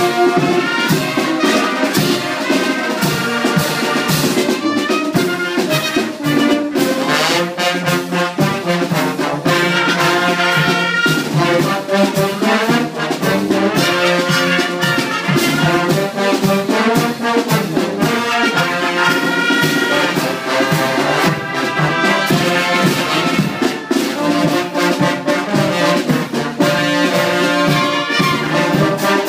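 Brass music with trumpets and trombones playing a tune over a steady percussion beat.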